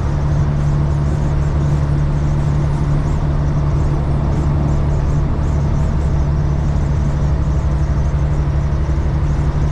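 Caterpillar 3406E straight-six diesel in a Freightliner FLD120 running steadily at highway cruise, a constant low drone heard inside the cab, with road noise.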